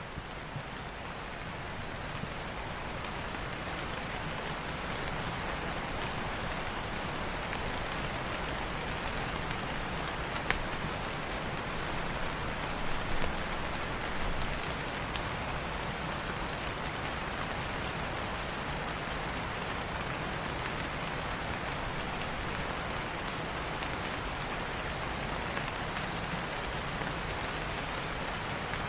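Steady rain falling on leaves, fading in over the first couple of seconds. A faint, short, high chirp recurs every four to five seconds.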